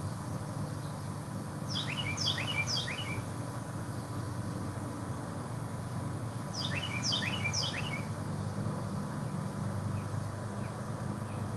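A songbird singing two short phrases, each a quick run of high notes sliding downward, the first about two seconds in and the second about five seconds later, over a steady low background hum.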